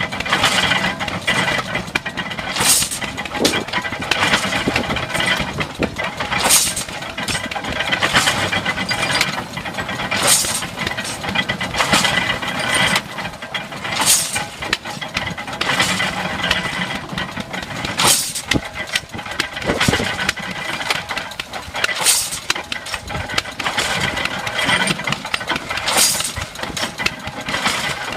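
Old hay baler driven by a flat belt from a hit-or-miss stationary engine, running with steady mechanical clatter. A sharp clank stands out about every four seconds.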